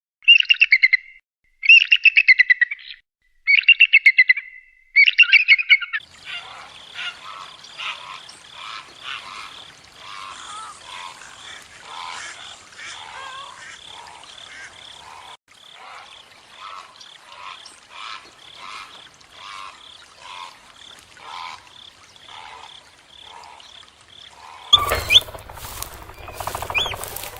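Bird calls: four loud, pitched calls about a second each, then a long stretch of dense, quieter chirping from many birds. Near the end a louder, different sound cuts in.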